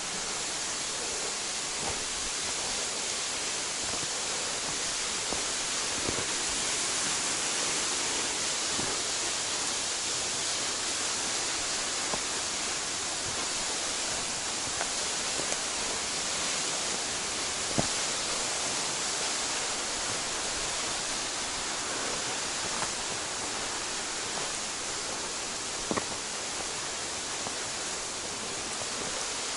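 Waterfall rushing, a steady hiss of falling water, with a few faint clicks over it.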